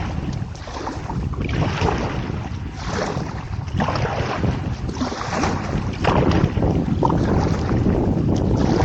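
Wind buffeting the action camera's microphone, with water splashing from kayak paddle strokes that come in surges every second or so. The wind grows louder about six seconds in.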